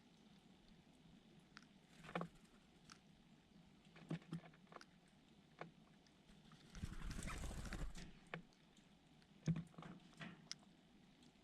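Faint scattered taps and clicks, typical of small birds pecking and hopping, with a short rush of fluttering wings about seven seconds in.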